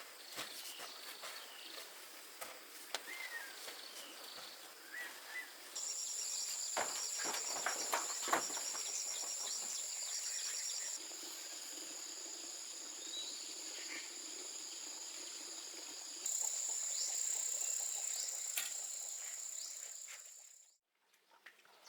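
Insects singing in a steady high-pitched drone that starts about six seconds in, shifts twice and cuts off abruptly near the end. Before it come scattered sharp taps and a few short bird chirps.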